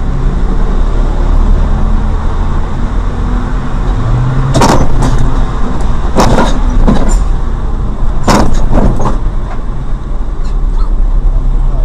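A road vehicle running with a loud, steady low rumble, broken by three short, harsh noisy bursts about two seconds apart, each followed by a smaller one.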